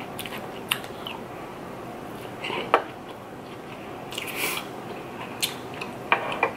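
Close-miked chewing of a mouthful of rice, with scattered small clicks and wet mouth smacks. Near the end, a wooden spoon clicks against the serving tray as she scoops again.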